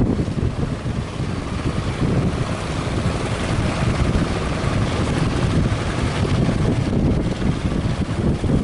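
Strong wind buffeting the microphone over the rush of surf, gusting unevenly throughout.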